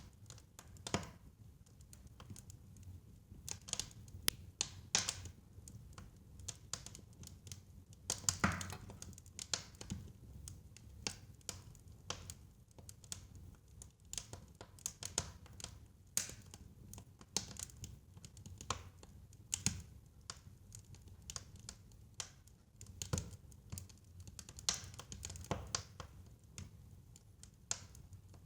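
Wood fire crackling in a fireplace: irregular snaps and pops over a low, steady background rumble, with one of the louder pops about eight seconds in.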